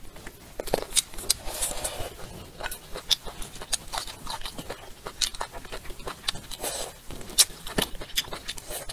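Mouth sounds of someone eating: chewing and biting into shrimp and greens, with many irregular, sharp wet clicks and smacks.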